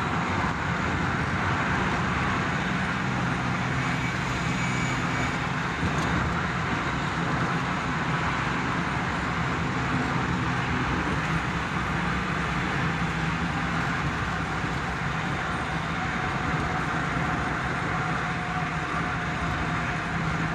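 Steady road and engine noise of a car driving at a constant speed through a long road tunnel, heard from inside the car: an even rush of tyre noise over a low engine drone.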